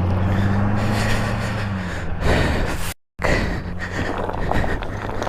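A vehicle engine's steady low hum over a noisy haze, the hum fading after about two seconds; the sound drops out completely for a moment about three seconds in.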